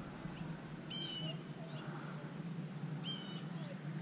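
A bird calling twice, about two seconds apart: short, even-pitched call notes, over a steady low hum.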